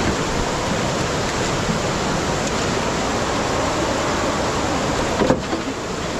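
Steady rushing of water, with one brief bump a little over five seconds in.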